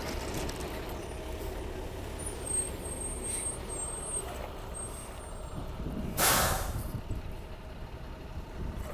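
Steady low rumble of idling heavy traffic, with one short, loud hiss of air brakes being released on a bus or truck about six seconds in.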